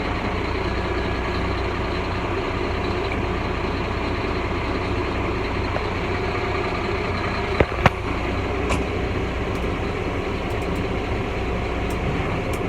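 Truck engine idling steadily, warming up shortly after a cold start, heard from inside the cab. Two sharp clicks come a little under eight seconds in.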